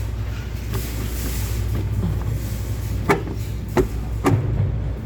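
A few sharp knocks against the part being worked loose, three of them close together about three to four seconds in, over a steady low hum.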